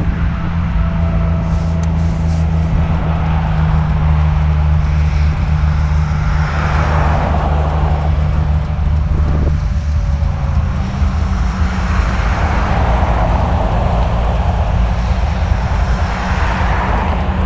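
Nissan Skyline R33's turbocharged RB25DET 2.5-litre inline-six running steadily with a deep, even engine note whose pitch steps up slightly about ten seconds in. A rushing noise swells and fades three times over it.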